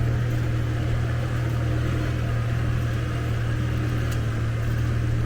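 Car driving: a steady engine and road drone with a constant low hum and no change in speed.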